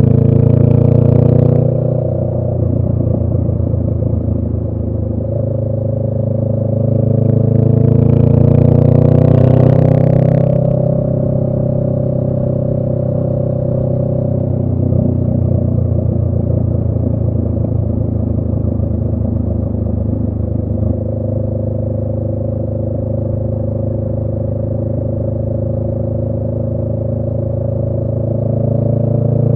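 2018 Honda Rebel 500's parallel-twin engine running through a Radiant Cycles Shorty GP exhaust while riding: the engine note drops about two seconds in, climbs as the bike accelerates from about six to ten seconds in, holds steady at a cruise, then rises again near the end.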